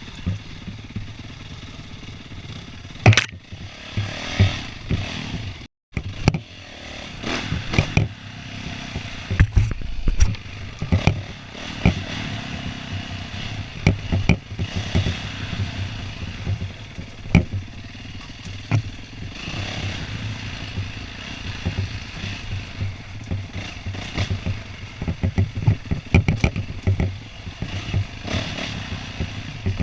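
Dirt bike engine running and revving over a rough trail, with frequent knocks and clatter from the bike hitting bumps and rocks. The sound drops out completely for a moment about six seconds in.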